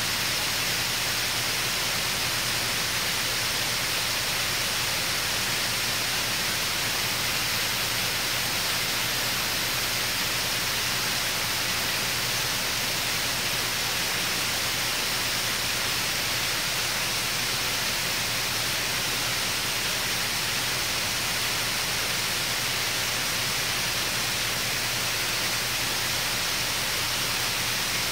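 Small waterfall: a forest stream spilling down a rock face, a steady, unbroken rush of falling water.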